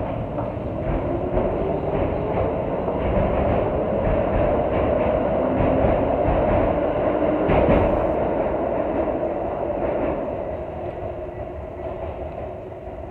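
Keikyu electric train running along the platform track with wheel-on-rail rumble and clatter, growing louder to a peak about eight seconds in and then fading as it moves away. A sharp click sounds near the loudest point.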